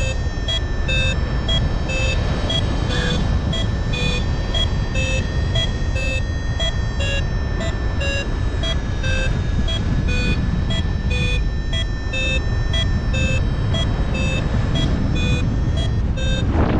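Paragliding variometer beeping in a fast, even series whose pitch shifts up and down, the climb tone that signals rising air in a thermal, over wind rushing past the microphone.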